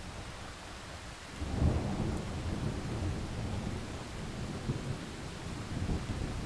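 Thunder rumbling over steady rain: a low rumble breaks in about a second and a half in, is loudest just after, and keeps rolling in smaller swells.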